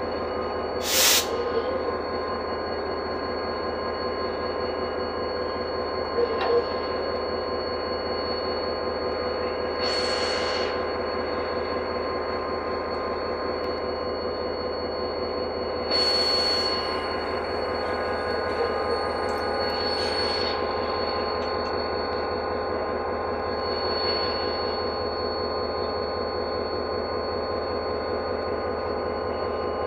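A stationary diesel passenger train at the platform: steady machinery hum with a high whine. Short bursts of hissing come about a second in and three more times later.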